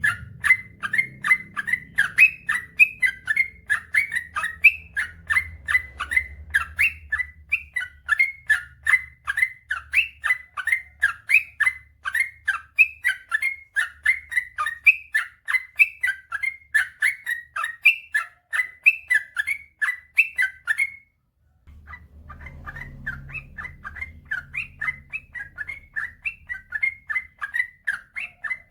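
Yellow-vented bulbul (trucukan) singing a long rolling song: a rapid run of repeated bubbly chirping notes, about three a second. The run breaks off for a moment roughly three-quarters of the way through, then picks up again.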